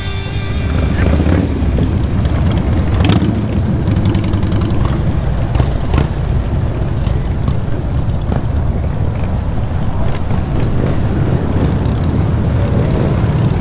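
Motorcycle engines running as bikes ride past, a steady low rumble.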